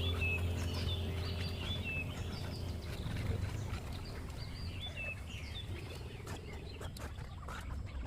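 Small birds chirping in short, quick calls over a steady low hum, the chirps thinning out after about five seconds; a few sharp clicks near the end.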